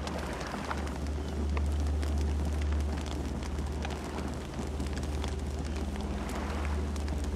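Campfire burning, with a steady low rumble from the flames and frequent short crackles and pops scattered through it.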